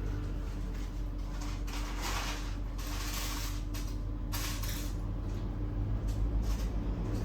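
Parts being handled during a printer repair: scraping and rustling noises, strongest about two to three and a half seconds in and again briefly past four seconds, over a steady low hum.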